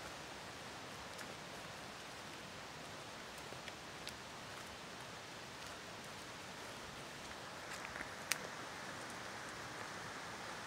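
Faint, steady rush of a river flowing, with a few light ticks and snaps scattered through it; the sharpest comes about eight seconds in.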